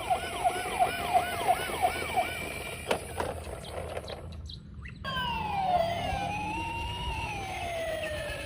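Electronic toy siren: a fast run of about seven falling 'yelp' sweeps in the first two seconds, a few clicks, then after a short break a slower siren wail gliding up and down.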